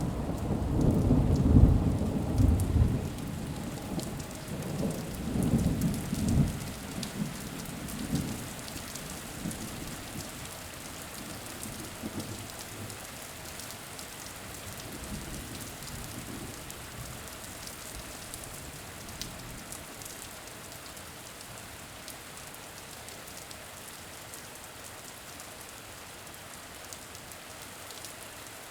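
Steady rain falling, with rolling thunder rumbling heavily through the first several seconds and then dying away, leaving only the even hiss of rain with scattered drop ticks.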